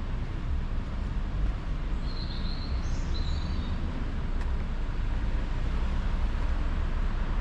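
Urban street ambience: a steady low rumble of road traffic, with a few brief high bird chirps about two to three and a half seconds in.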